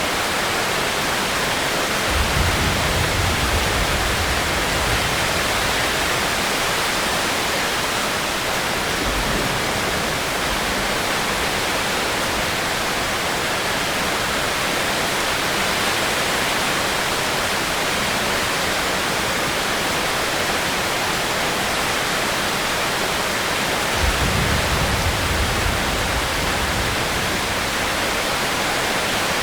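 Steady heavy rain, an even hiss with no let-up, with two brief low rumbles, about two seconds in and again near the end.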